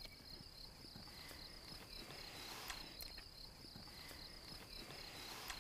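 Faint, steady high-pitched trilling of crickets, pulsing evenly without a break.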